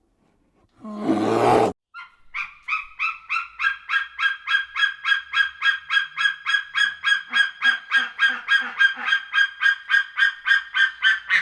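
An animal, likely a bird, giving a long, even series of short honking calls, about four a second, after a brief loud rough burst about a second in.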